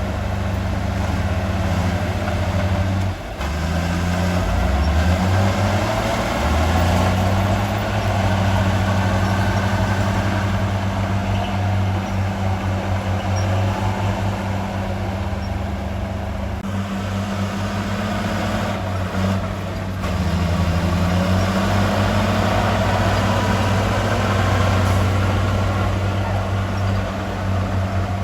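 Heavy diesel engine of earthmoving equipment running steadily, its engine speed shifting a few seconds in and again about two-thirds of the way through.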